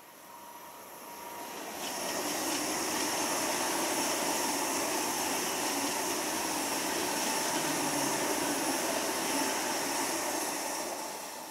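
Deutsche Bahn ICE high-speed electric train passing at speed: a steady rush of wheel and air noise with a thin whine. It swells over the first two seconds, holds, then fades near the end.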